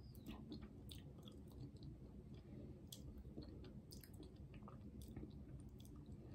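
Faint chewing and small wet mouth clicks from someone eating a spoonful of soft, mousse-like chocolate cheesecake dessert.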